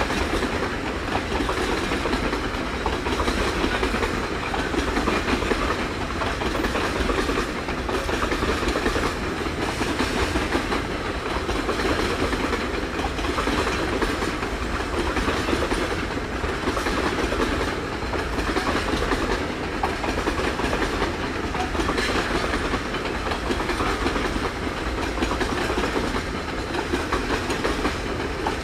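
Loaded freight wagons rolling past at low speed: a steady rumble of steel wheels on the rails, with clickety-clack from the wheels crossing rail joints.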